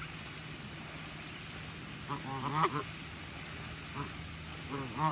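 A bird calling in short pitched calls: a quick run of calls about two seconds in, a single call about four seconds in, and another run near the end, over a steady low hum.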